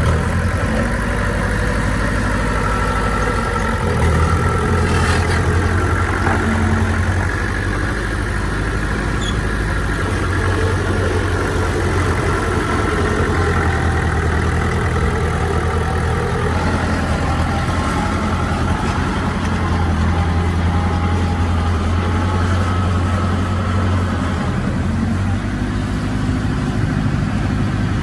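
Diesel engine of heavy earthmoving machinery running steadily at a constant, fairly loud level, its low hum shifting a little in pitch now and then.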